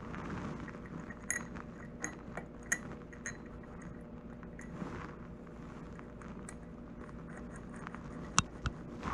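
Light metallic clicks and clinks, about a dozen scattered through, the sharpest a little past eight seconds in, over a steady low hum.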